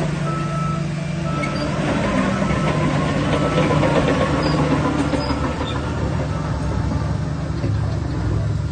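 Shantui DH17C3 Pro bulldozer's diesel engine running steadily under load, with a rough clatter of stone and machinery as it pushes fill. The engine works a little harder in the middle.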